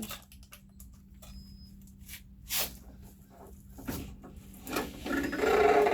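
Jeep Wrangler door being shut on its reworked driver's-side latch: a few knocks and a clunk, then a longer squeaky rubbing near the end.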